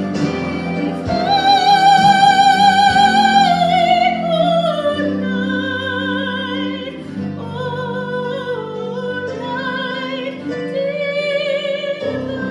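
A solo singer in a classical style, with strong vibrato, over instrumental accompaniment. The voice holds a long high note beginning about a second in, then falls away into shorter phrases.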